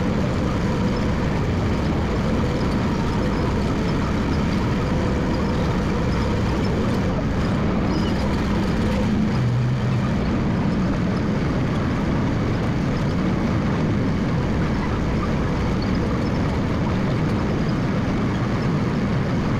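Massey Ferguson MF 300 crawler dozer running steadily while it works, a constant loud engine drone.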